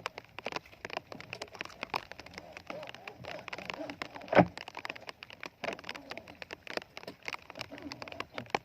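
Rain falling: many small irregular taps and crackles of drops hitting surfaces, with one louder knock about four and a half seconds in.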